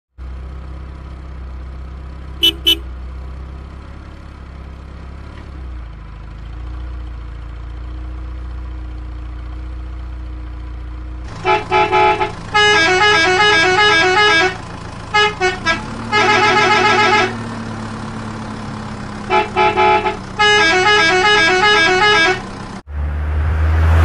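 Added cartoon vehicle sound effects. A low rumbling hum runs with a quick double horn beep about two seconds in. From about eleven seconds, loud rapid electronic beeping tones come in repeated phrases, then cut off suddenly into a low boom and whoosh near the end.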